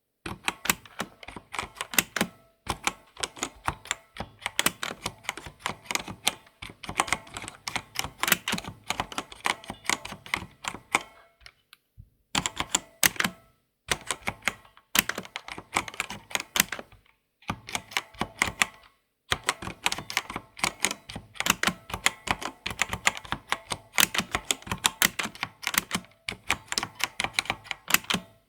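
Typing on a computer keyboard: quick, dense runs of clicking keystrokes lasting a few seconds each, with short pauses between.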